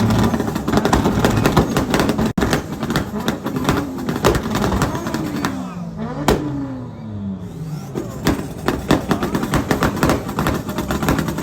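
Two cars, a Honda Civic and a Toyota Supra, revving their engines together, the revs climbing and dropping again and again, with rapid exhaust crackle and pops.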